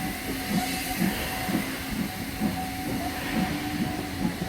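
Steam train running, with a regular low beat about twice a second over a steady hum and hiss.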